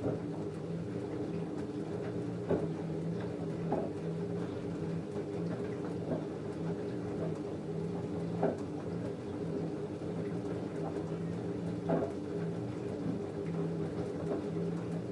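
LG F10A8HDS5 front-loading washing machine in the wash phase of a cotton cycle, its drum turning a full load. A low motor hum comes and goes as the drum runs, with water sloshing and a few soft knocks from the laundry tumbling.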